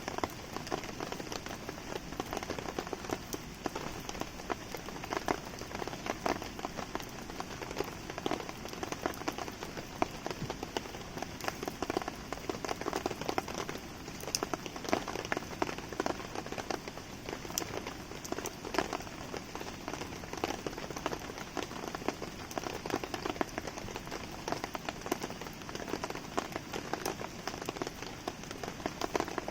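Steady rain falling on a surface, a constant hiss dense with small sharp ticks of drops, mixed with the pops and crackles of a wood campfire.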